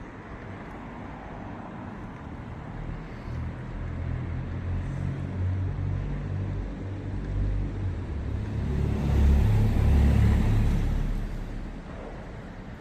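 A motor vehicle passes close by. Its low engine rumble grows louder over several seconds, peaks with a rush of tyre noise, then dies away near the end.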